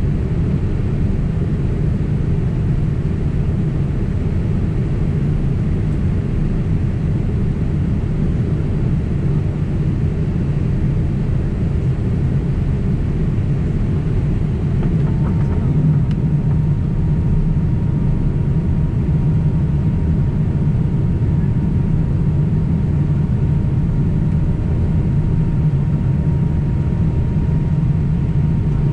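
Steady low cabin rumble of a Boeing 767 airliner in flight: engine and airflow noise heard from inside the cabin. About halfway through, a faint steady whine joins in and holds.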